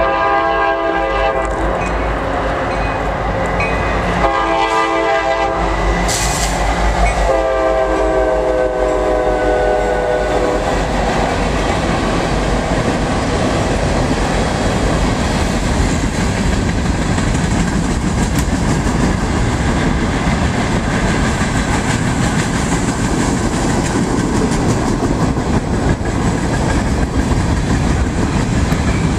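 Freight locomotive's air horn blows three blasts as it approaches the crossing, the last one the longest, its pitch dropping slightly as the engine passes. Then comes the steady rumble and clatter of freight cars rolling past.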